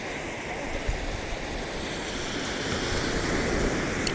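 Ocean surf washing up the beach, a steady rushing noise with low wind rumble on the microphone, growing slightly louder toward the end.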